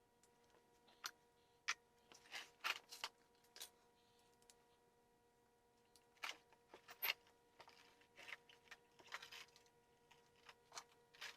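Scattered, irregular sharp clicks and short taps, about a dozen, over a faint steady electrical hum.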